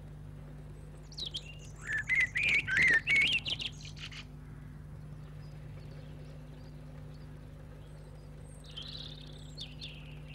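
A bird singing: a loud run of quick, warbling chirps for about three seconds, then a softer short phrase near the end, over a steady low hum.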